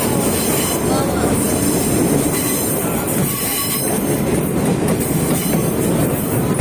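Sagano Romantic Train running along the track, heard from aboard: a steady, loud rumble and rattle of the carriage and its wheels on the rails.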